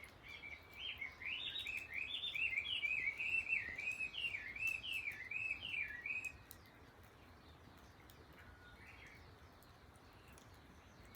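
Japanese bush warbler (uguisu) singing a rapid run of repeated rising-and-falling whistled notes for about six seconds, then falling silent.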